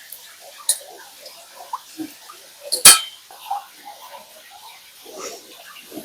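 Utensils clinking and scraping on a plate or pan, with a few light taps and one sharp, loud clink about three seconds in.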